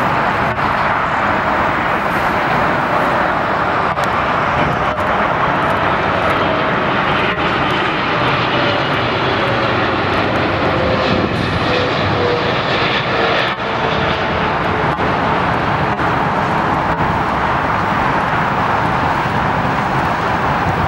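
Airliner's engines running as it passes: a steady loud rush with a faint whine that slowly falls in pitch through the middle.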